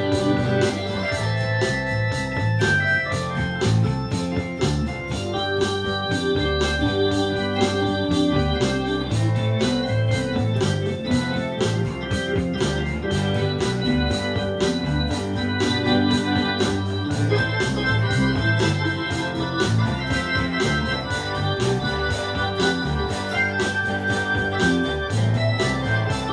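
A band playing an instrumental passage with no vocals: an organ-toned keyboard carries the tune over a steady beat.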